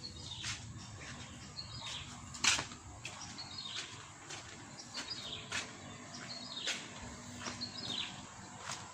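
A songbird repeating a short call that falls in pitch, about once a second, over and over. Sharp clicks cut in now and then, the loudest about two and a half seconds in.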